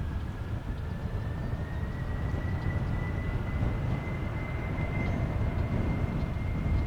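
Jet airliner engines running: a steady low rumble with a thin high whine that rises slowly in pitch.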